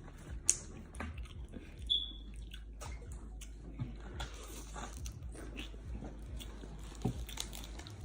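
A person chewing food, with scattered small clicks and crackles and one sharper click about half a second in.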